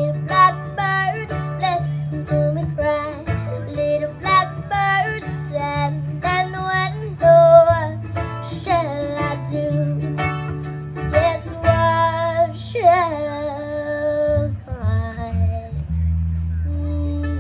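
A high voice singing with plucked acoustic guitar. Near the end the singing drops away and held guitar notes ring on.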